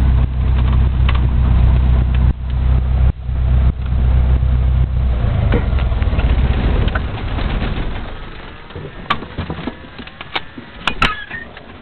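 Small airplane's engine idling, then dying away over a few seconds midway, after which only scattered sharp clicks and knocks are left.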